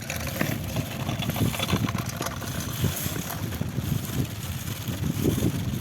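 Low, uneven rumble of wheels rolling over pavement, mixed with wind buffeting the microphone while riding along.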